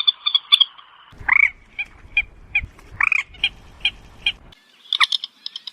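Recorded moorhen calls: a fast run of clucking notes, then two louder, drawn-out croaking calls with shorter notes between them over a low rumble, and another burst of calls near the end.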